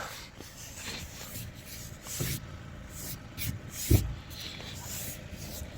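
Irregular rubbing and scraping as packed snow is cleared from a car's clogged front grille, with a dull thump about four seconds in.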